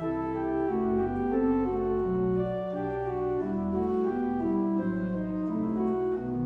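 Organ music: sustained chords with a moving melody over a stepping bass line.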